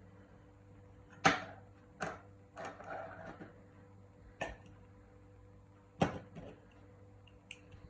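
Small hard objects handled on a work surface: a handful of sharp clicks and knocks, the loudest about a second in and again about six seconds in, with a short scraping rattle around three seconds in, over a low steady hum.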